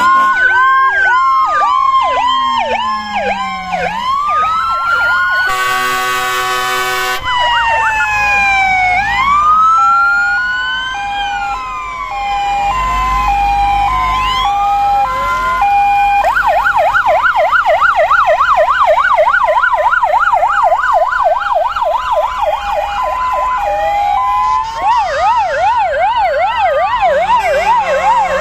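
Several fire engines and emergency vehicles sound their sirens together as they pass: overlapping slow wails and two-tone hi-lo sirens, a fast yelp joining about halfway through. A short horn blast sounds about six seconds in.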